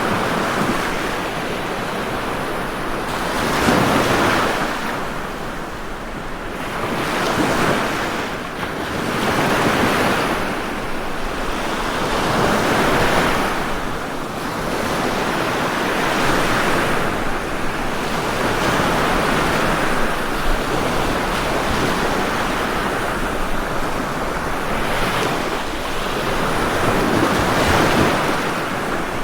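Ocean waves breaking and washing up the shore one after another: a steady rush of surf that swells and eases every few seconds.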